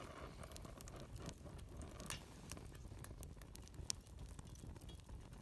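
Faint crackling of a wood fire: scattered sharp ticks and pops over a low steady rumble.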